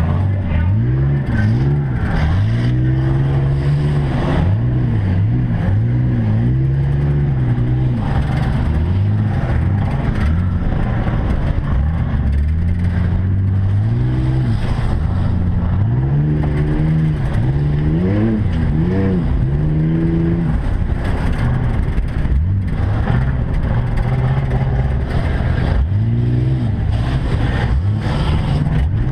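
Rally trucks' engines running hard in a race, revving up and dropping back again and again every second or two.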